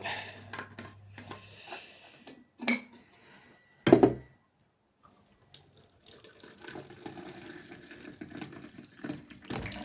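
Hot tea being poured into a cup, a steady pour over the last few seconds. Before it come a few light clatters and one loud knock about four seconds in.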